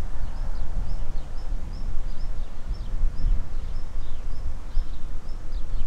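Small birds chirping repeatedly, short high calls about twice a second, over a heavy gusting rumble of wind on the microphone.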